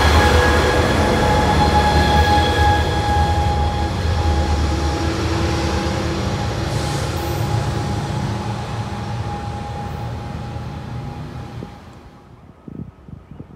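ACE commuter train's diesel locomotive and coaches pulling away: a low engine rumble with a steady whine over it, loudest at first and fading as the train draws off. The sound drops off sharply near the end.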